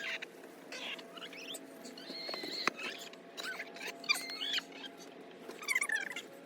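Short, high-pitched bird chirps and squeaky calls, gliding up and down, with a few sharp clicks and knocks in between.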